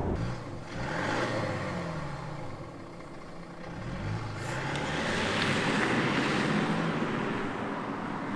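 Mercedes-Benz CLS 400d's 2.9-litre straight-six diesel on its stock sound, with the retrofitted active sound unit switched off, accelerating away. The engine note climbs, drops back, then climbs and grows louder again about four seconds in.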